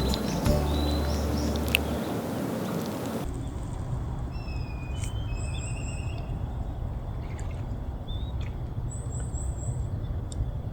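Background music ends about three seconds in, giving way to a steady low outdoor rumble with small birds chirping and whistling over it, including a couple of quick chirp series.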